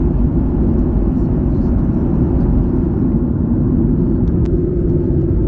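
Boeing 737-800 airliner cabin noise: a steady, even low rumble of the engines and airflow, with one small click about four and a half seconds in.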